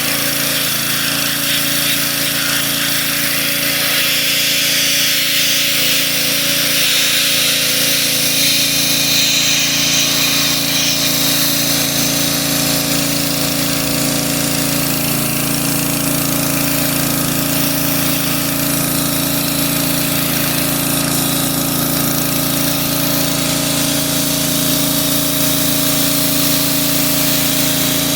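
A power tool running steadily and continuously: a steady motor hum under a loud, even hiss.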